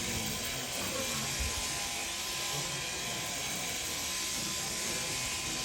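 Electric sheep-shearing handpiece running steadily as the fleece is cut off a ewe.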